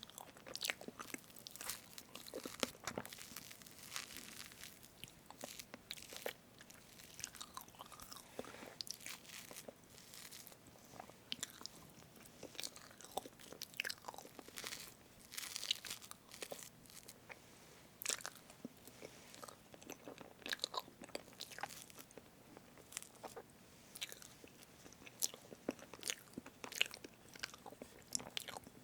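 Close-miked eating of a strawberry whipped-cream cake: a fork cutting through the soft cream and wet, sticky chewing, heard as many small irregular clicks and crackles.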